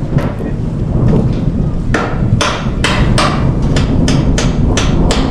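Hammer blows during roofing work: a quick series of sharp strikes, about three a second, starting about two seconds in, over a steady low rumble.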